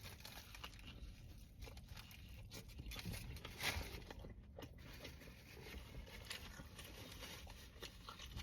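A person biting and chewing a sub sandwich close to the microphone, faint crunching clicks throughout, with the loudest crunch a little over three and a half seconds in.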